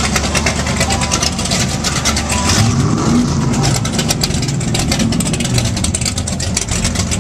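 Car engine running close by: a steady low idle that changes pitch about two and a half seconds in.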